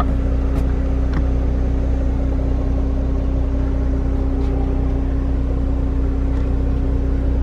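A car engine idling with a steady low hum, with a few faint light clicks over it.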